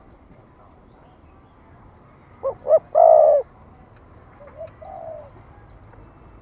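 Spotted dove cooing: a loud phrase of two short notes and a longer drawn-out coo about two and a half seconds in, followed by a fainter, softer coo phrase near the end.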